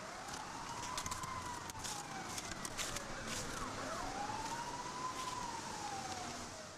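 Emergency vehicle siren on the wail setting, going through two slow rise-and-fall cycles.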